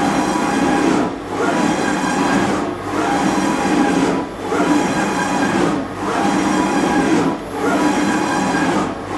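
Brand 850 NE CNC surface grinder running, its table traversing back and forth under the wheel: a steady machine hum and grinding noise that drops briefly at each table reversal, about every one and a half seconds.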